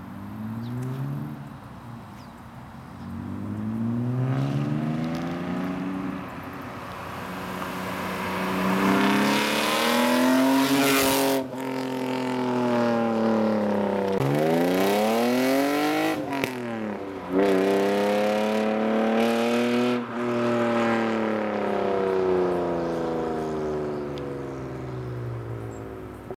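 1999 BMW E36 M3's straight-six on 2.5-inch straight pipes, pulling hard with the revs climbing, dropping sharply at two gear changes about eleven and sixteen seconds in, then falling steadily as the car slows.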